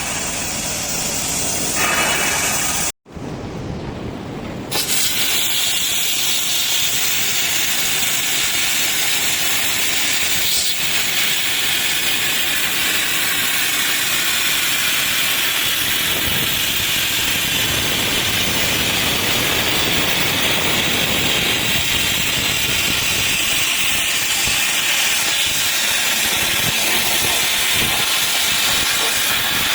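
Plasma torch cutting steel pipe on a CNC pipe-cutting machine: a loud, steady hiss of the plasma arc and its air jet. It cuts out abruptly about three seconds in, comes back quieter, and returns to full strength a couple of seconds later.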